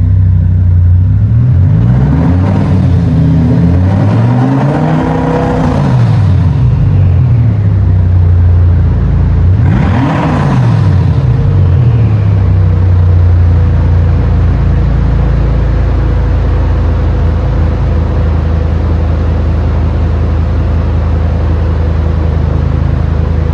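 Audi RS6's twin-turbo V10 running with its mufflers disconnected. It is revved three times, the third about ten seconds in, each rev rising and falling back, then it settles to a steady idle.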